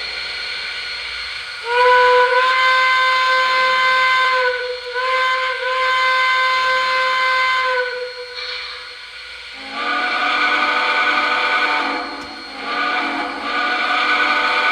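Lionel O gauge 4-6-0 steam locomotive's onboard sound system blowing its quilling steam whistle in several long blasts over a steady hiss. The later blasts are lower and fuller.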